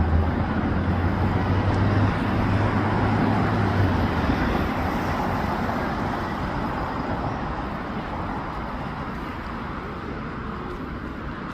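Road traffic noise: a low vehicle hum stops about four seconds in, and the rumble of traffic then slowly dies down.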